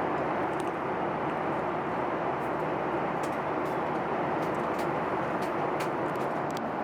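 Steady cabin noise inside a Boeing 737-800 in flight: an even rush of airflow and engine noise, with a few faint ticks.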